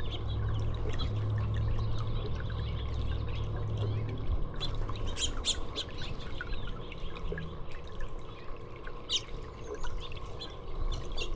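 Small songbirds giving short chirps and calls, a cluster about halfway through and a few more near the end, over steady trickling water. A low hum fades out about halfway through.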